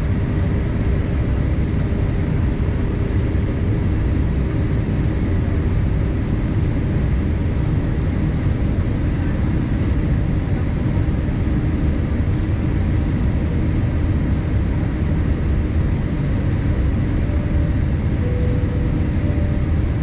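Steady low roar of engines and rushing air inside the passenger cabin of a Boeing 787-8, with a faint steady hum over it.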